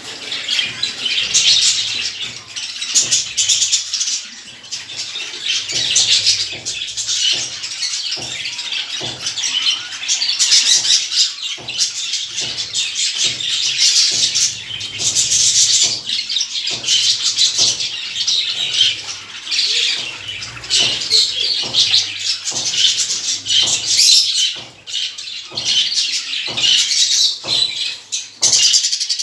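A flock of small cage birds chirping and chattering continuously, many calls overlapping.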